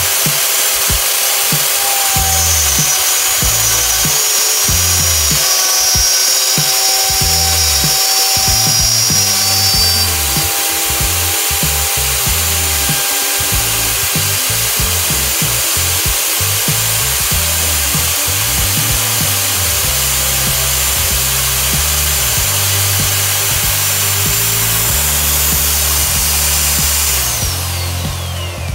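Mastercraft 11-amp router running at full speed, its bit cutting into a wooden board with a steady loud whine. Near the end the motor is switched off and winds down in a falling whine.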